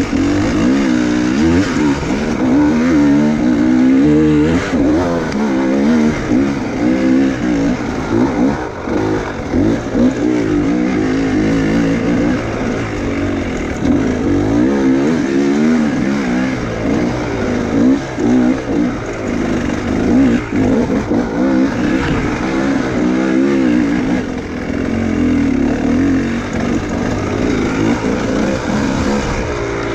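Enduro motorcycle engine revving up and down without a break, its pitch rising and falling over and over with the changing throttle.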